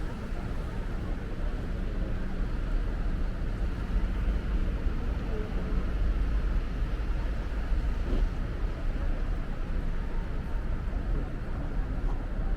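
Steady city street noise with a deep, continuous low rumble, the kind made by traffic on snowy downtown streets.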